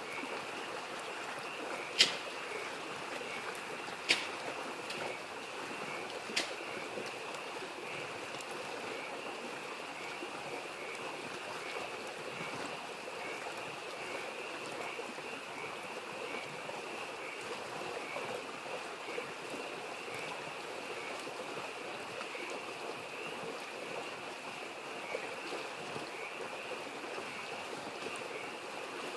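Wood fire popping sharply about three times in the first seven seconds, over a steady babbling mountain stream and frogs calling on and on in a high-pitched chorus.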